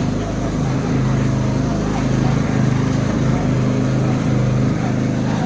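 Tractor engine running steadily, a low drone with an uneven pulse.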